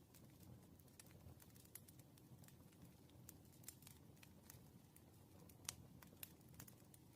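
Faint wood fire crackling: irregular sharp pops and snaps over a low steady rumble.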